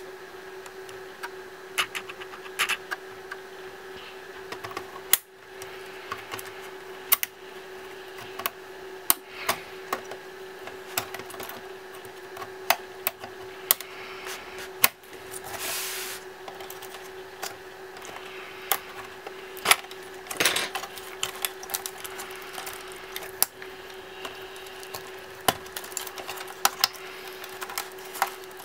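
Irregular sharp clicks and light taps of hands and tools working on the plastic casing and small parts of a Toshiba Satellite L505 laptop being taken apart. There are two brief scraping or rustling stretches and a steady hum throughout.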